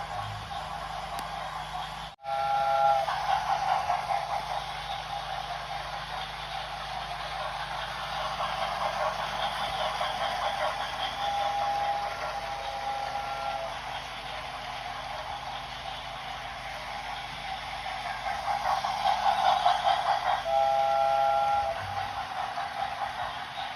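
Steam locomotive running with a continuous hiss of steam and exhaust, sounding a chime-like whistle three times: a short blast a few seconds in, a longer one in the middle, and another near the end.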